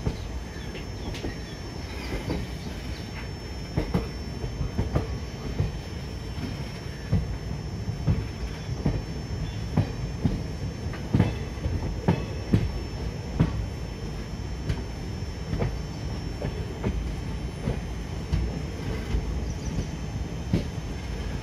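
Train running along the track: a steady low rumble with irregular sharp clacks and knocks of the wheels and car.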